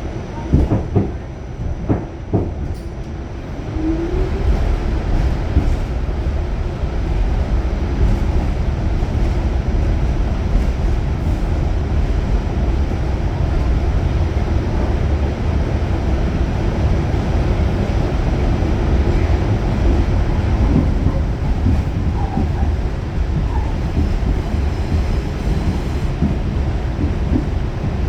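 Pullman Standard R46 subway car running on the track. A few sharp clacks come in the first couple of seconds, and a short rising whine follows near four seconds. After that comes a steady loud rumble of wheels on rail.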